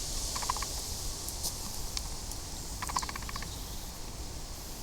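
Scattered light ticks of bits falling from the trees onto leaves, sounding like the first drops of rain, over a steady outdoor hiss. Two short rattling calls, about half a second in and again about three seconds in.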